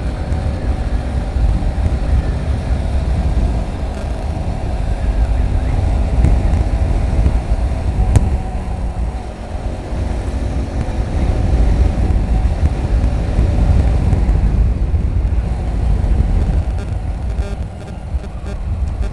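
Motorcycle on the move: a heavy, gusting wind rumble on the rider's microphone over the steady running of the engine.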